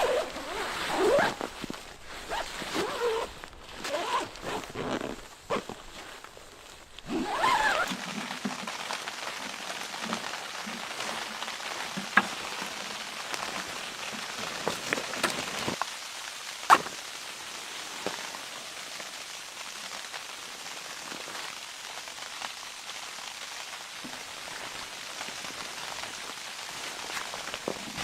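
Irregular rustling and knocking for about the first seven seconds, then a steady pattering hiss of falling precipitation, with a few sharp clicks.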